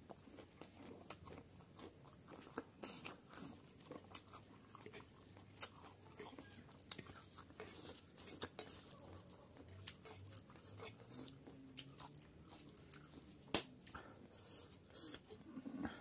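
Close-up chewing and biting as a man eats chicken curry with rice by hand: a steady run of wet mouth sounds and small crunching clicks, with one louder sharp click about three-quarters of the way through.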